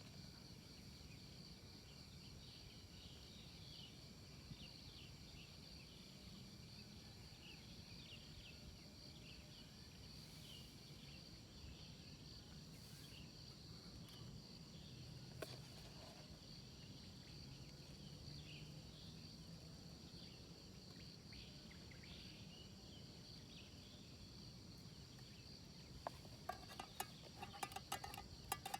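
Insects chirping steadily at a high pitch, faint, with a run of sharp clicks near the end.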